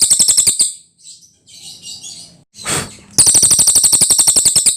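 Cililin bird singing: rapid, even trills of clicking notes, about a dozen a second. One trill ends just over half a second in, and a second one runs from about three seconds in almost to the end.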